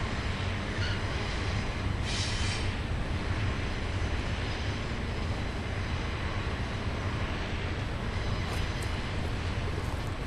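BNSF freight train rolling past, a steady low rumble of cars on the rails, with a brief higher rush of noise about two seconds in.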